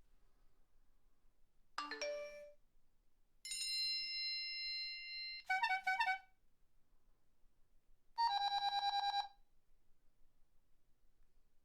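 A series of four separate phone alert and ringtone sounds with short gaps between them: a quick rising chime, a held electronic chord of about two seconds, a short burst of rapid beeps, and a fast trilling ring lasting about a second.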